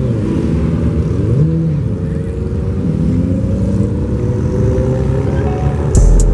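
Car engine revved up and down several times. Near the end, a deep bass hit as music starts.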